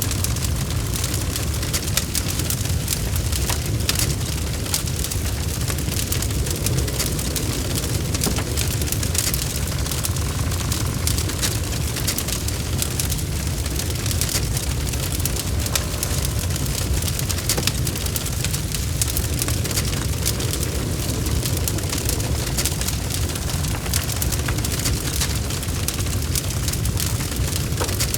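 Wood fire burning in a fireplace: dense, continuous crackling and popping of logs over a steady low rumble of the flames.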